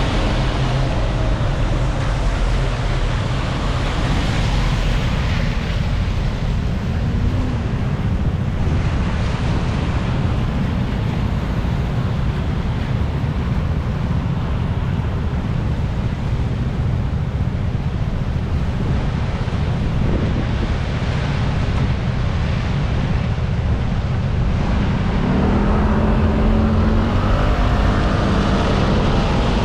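Wind rushing hard over the microphone of a moving rider, with road and vehicle noise underneath. Near the end a faint engine tone rises slightly in pitch.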